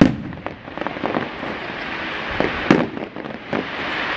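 Fireworks going off: several sharp bangs, the loudest right at the start and another strong one under three seconds in, over a continuous crackling hiss.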